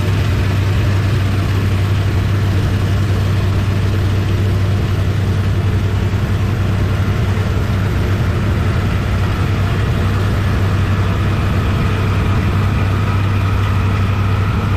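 Engine-driven pressure washer running steadily, a low even engine hum under the continuous hiss of the high-pressure water spray.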